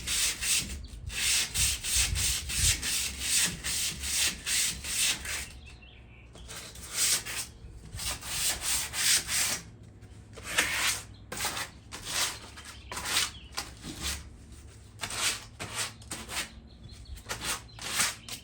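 Hand sanding of a rusty metal patio chair frame to strip the surface rust: rhythmic back-and-forth scratching strokes, about two a second, with short pauses about six and ten seconds in.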